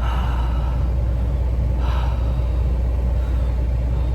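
Car engine idling steadily while warming up in the cold, a constant low rumble. A person breathes out audibly twice, at the start and about two seconds in.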